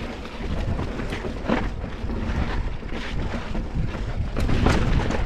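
Wind buffeting the microphone over the rumble of a mountain bike rolling across slickrock, with scattered knocks and clatters from the bike as it rides over the rock.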